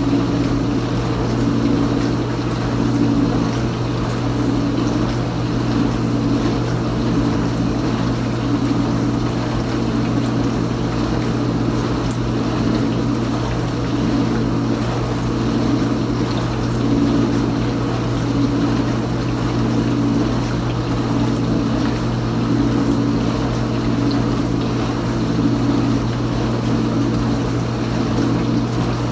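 Kenmore Ultra Wash 3 dishwasher running a wash phase: the circulation pump motor hums steadily while water sprays inside the tub, swelling and easing every few seconds.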